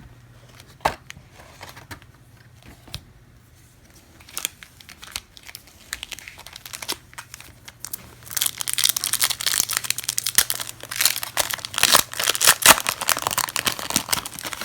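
Trading-card hobby box and its wrapped packs being handled and opened: scattered light clicks and rustles at first, then a long stretch of loud, dense crinkling and tearing of wrapper material from about halfway in.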